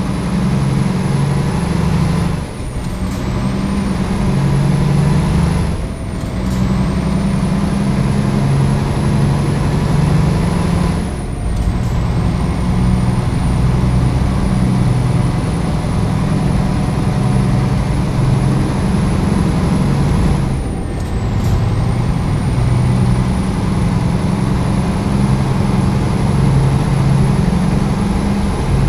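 Heavy Scania XT G-series truck's diesel engine running steadily while hauling a loaded low loader, its sound dipping briefly four times.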